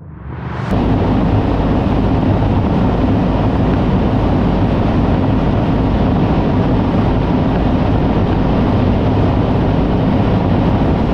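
Loud, steady vehicle roar that comes in abruptly in the first second and holds at an even pitch without rising or falling.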